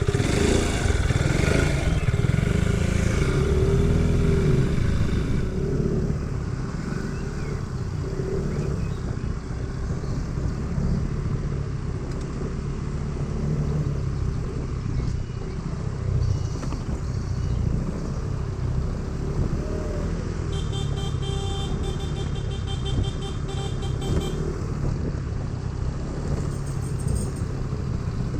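Motorcycle riding along, its engine running steadily under road and wind noise. A rapid pulsing high beep sounds for about four seconds past the middle.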